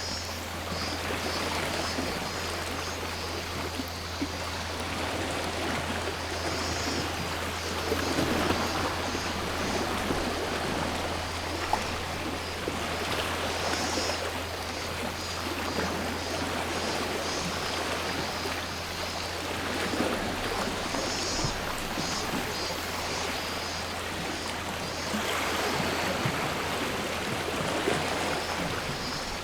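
Sea waves washing onto the shore, the wash swelling and fading every few seconds. Cicadas call over it in groups of rapid pulsing notes that come and go.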